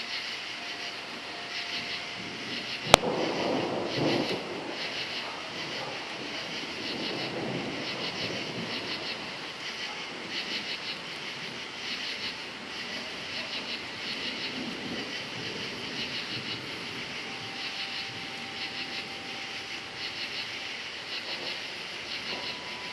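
Crickets chirping in a steady, pulsing chorus while thunder rumbles. About three seconds in there is a sharp crack followed by a rolling rumble that slowly fades.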